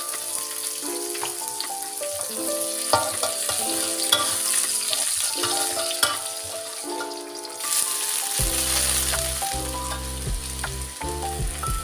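Sliced garlic, chili and tomato sizzling in hot oil in a wok, with a steel spatula scraping and clicking against the pan as it stirs. The sizzle eases about eight seconds in, once the water spinach is in the wok. Instrumental background music plays throughout, and bass notes join near the end.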